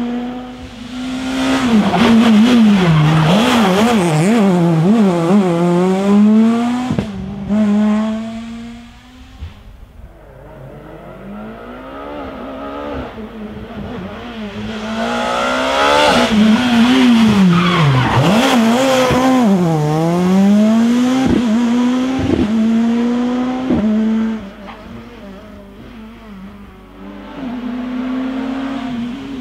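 Rally cars driven hard on a test stage, the engine revving up and down through gear changes and lifts as each car comes close and goes by. Loud passes come in the first third and again around the middle, with the engine heard more faintly between them and near the end.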